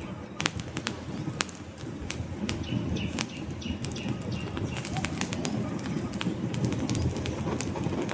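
Wood fire burning in a fireplace: irregular sharp crackles and pops from the logs over a steady low rush of flame. A faint thin hiss sounds briefly a few seconds in.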